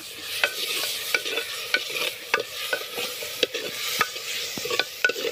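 Onion and tomato frying in oil in a pot, sizzling steadily, while a spoon stirs them and knocks against the pot in irregular clicks.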